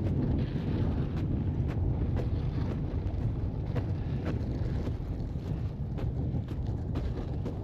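Strong wind buffeting the microphone, a steady low rumble, with faint regular clicks about twice a second.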